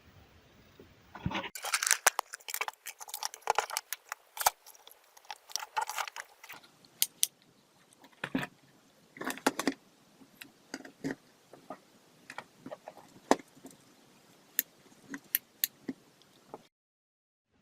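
A quick run of sharp clicks, rattles and light clatter, like small hard parts being handled; it is busiest in the first few seconds, then thins to scattered ticks, and cuts out shortly before the end.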